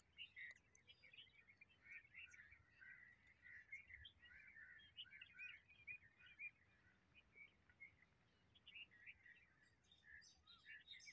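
Faint chirping of many small birds, a busy chatter of short calls that thins out in the middle and picks up again near the end.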